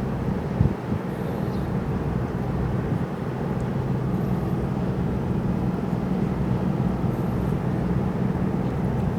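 Steady low mechanical drone with a held hum, slowly growing a little louder.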